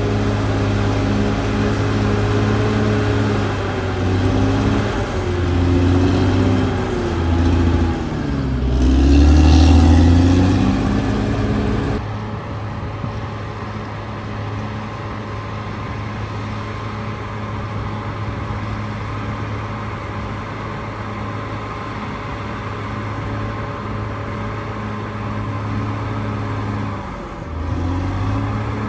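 Caterpillar D6R XL bulldozer's diesel engine working. Its pitch dips and swells louder several times in the first ten seconds or so as it takes and sheds load, then it runs steadily after an abrupt change about twelve seconds in, with one brief dip and recovery near the end.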